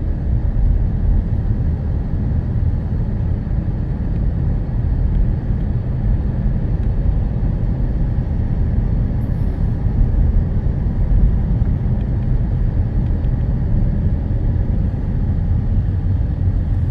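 Steady low rumble of a vehicle driving along a road, with road and wind noise.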